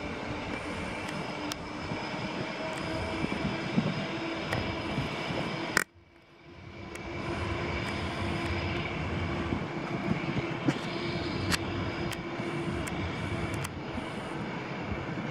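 Steady drone of a locomotive-hauled passenger train of coaches pulling away from the platform. About six seconds in, after a click, the sound cuts out to near silence and fades back in.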